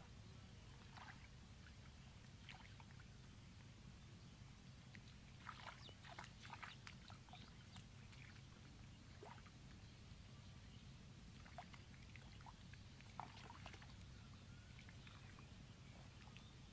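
Faint wet squelches and crackles of hands digging in soft mud, in two short clusters about a third of the way in and again near the two-thirds mark, over a low steady hum.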